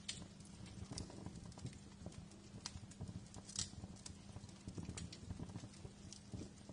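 Wood fire crackling, with irregular sharp pops and snaps over a low steady rumble; the loudest pop comes about three and a half seconds in.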